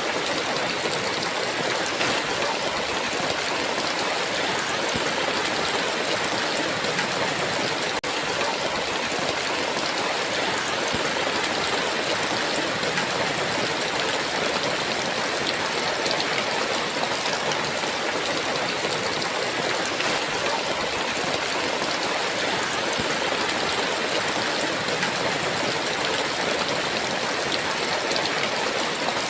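Heavy rain falling as a steady, dense hiss with no thunder.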